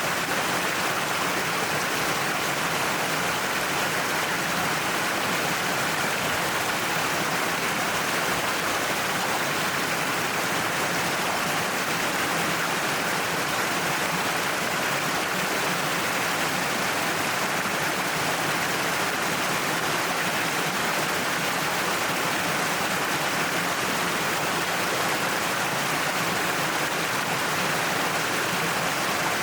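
Waterfall pouring down a cliff face: a steady, unbroken rush of falling water.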